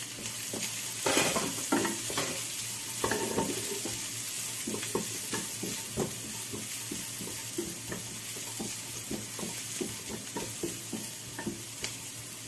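Chopped onion and garlic frying in a nonstick pan with a steady sizzle, while silicone-tipped tongs stir them with repeated short scrapes and taps against the pan.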